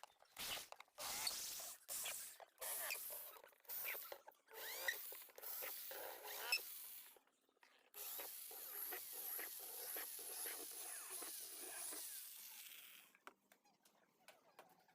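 Repeated rasping strokes of a hand tool worked against a hard surface, then about five seconds of continuous rasping that stops about 13 seconds in.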